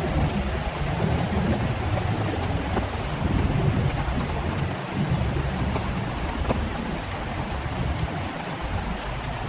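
Heavy rain pouring steadily, with a deep rumble of thunder underneath.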